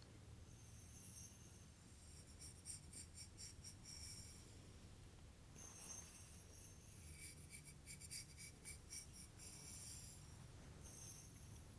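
Faint, scratchy strokes of a tool drawn through hair, several a second, in two runs with a brief lull about six seconds in.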